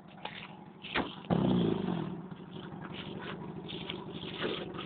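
Toyota Corolla's engine revving hard about a second in, its pitch falling as the revs drop, then running on steadily; a couple of sharp knocks come just before the rev.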